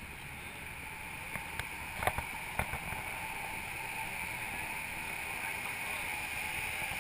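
Lamborghini Gallardo's V10 engine idling steadily, getting slightly louder over the seconds. A few light clicks sound about two seconds in.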